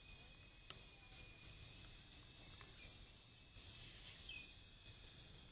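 Sogon bird calling in a quick series of short, high chirps, about two to three a second, over a steady high drone of insects.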